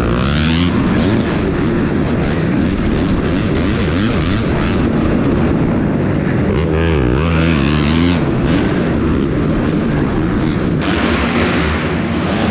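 Dirt bike engines revving up and down as they race around the track. The sound changes about eleven seconds in.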